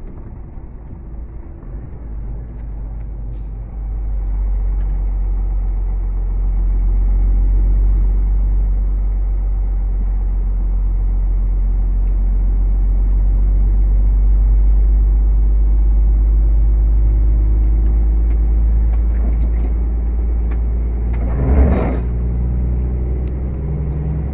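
Heavy truck's cab drone while driving: a steady low engine and road noise that grows louder about four seconds in, with one brief louder noise near the end.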